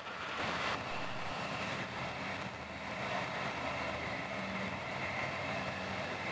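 Passenger train running at speed, heard from inside the carriage: a steady rush of wheels on rail with a low hum underneath, a little louder in the first second.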